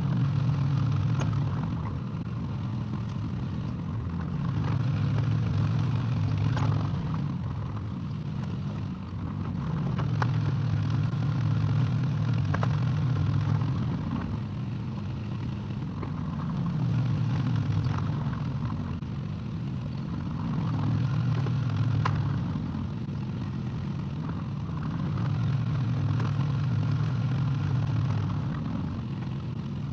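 Excavator engine running, its low hum swelling and easing every few seconds as the machine works, with a few sharp metallic clanks.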